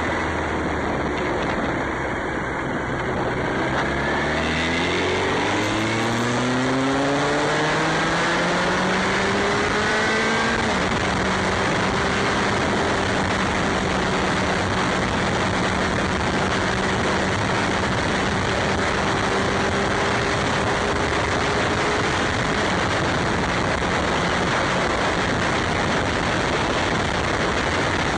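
Motorcycle engine accelerating, its note climbing steadily for about ten seconds, then holding a steady pitch while cruising before sinking into the noise. A loud, steady rush of wind runs underneath.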